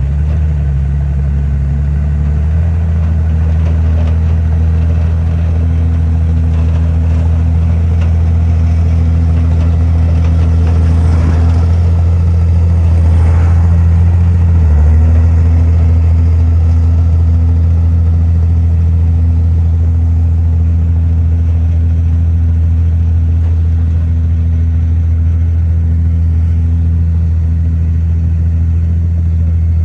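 Heavy earthmoving machine's diesel engine running steadily and loudly, with a brief dip and recovery in pitch about halfway through.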